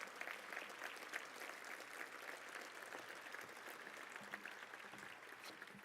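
Audience applauding, faint, tapering off near the end.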